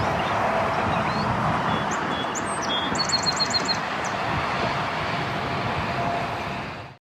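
Steady outdoor traffic noise, with a bird chirping a quick run of about six short high notes about three seconds in. The sound fades out near the end.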